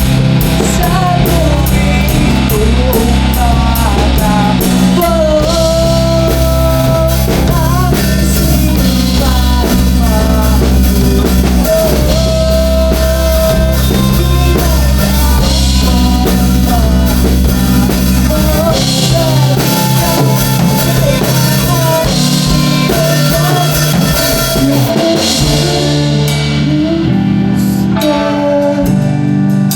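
Rock band music: drum kit, bass and guitar playing with a melodic lead line, the deep bass dropping out about two-thirds of the way through.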